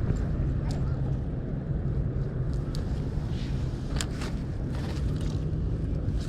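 Steady low hum of a vehicle running, with a few faint clicks.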